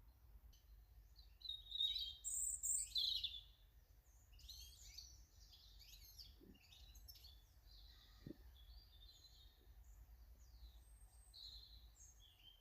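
Small garden birds chirping and calling in quick, varied short notes, loudest in a burst during the first few seconds and sparser after.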